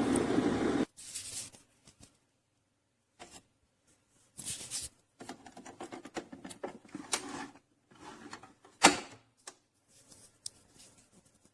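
A steady noise that cuts off suddenly just under a second in, then scattered light clicks, taps and rustles, with one sharper click about nine seconds in.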